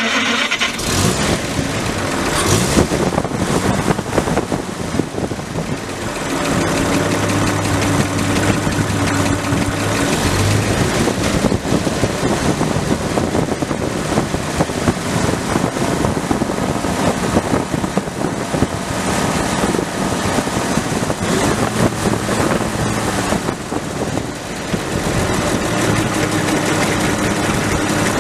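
1933 Chevrolet Master's straight-six engine running while the car is driven, mixed with road and wind noise. Its pitch shifts with changes in speed, with a steady low hum for a few seconds about a quarter of the way in.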